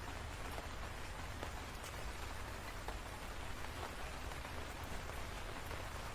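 Steady rain falling, with scattered sharper drops ticking against a surface over a low rumble.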